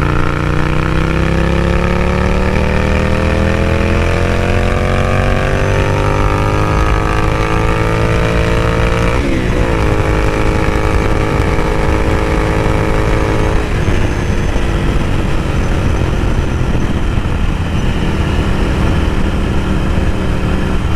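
Ducati Scrambler Café Racer's air-cooled 803 cc L-twin running through a Vance & Hines slip-on exhaust under way. The engine note climbs steadily for about nine seconds, drops sharply with a gear change, holds steady, then eases off about fourteen seconds in, after which a steady rushing noise mostly covers it.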